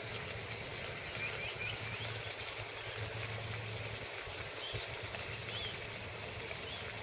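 A few short bird chirps, about a second in and again near the middle, over a steady background hiss and low hum.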